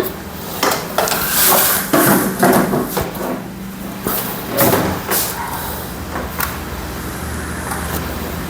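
Workshop handling noise on a motorcycle engine bench: metal tools and parts knocking and clinking, with short rushes of hiss, over a steady low machine hum.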